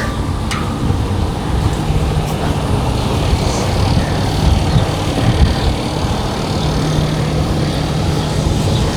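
A vehicle engine running steadily, a continuous low hum.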